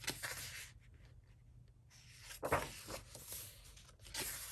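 Pages of a coloring book with thick, smooth paper being turned by hand: three papery swishes, one at the start, one in the middle and one at the end.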